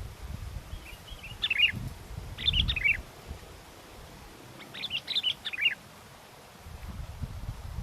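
Sooty-headed bulbul (kutilang) singing three short chirping phrases, about a second in, at under three seconds and again at about five seconds. Wind buffets the microphone in low rumbling gusts underneath.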